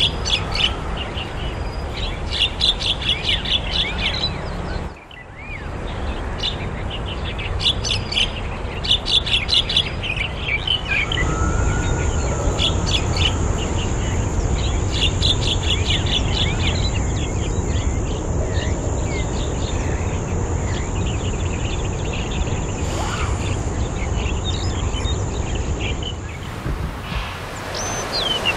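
A wild bird singing in bursts of rapid, repeated high notes, over steady background noise. A steady high-pitched whine joins from about eleven seconds in and stops a couple of seconds before the end.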